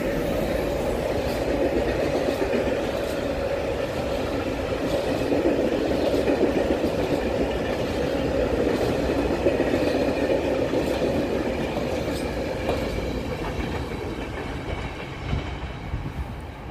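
A train passing close by: a steady rumble of wheels on rail with scattered clicks as the wheels cross rail joints, easing off a little near the end.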